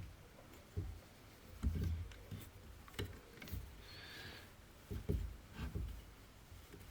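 Faint, irregular light knocks and clicks of a chainsaw's handle and tank assembly being handled while a screw is forced through a stiff rubber anti-vibration mount.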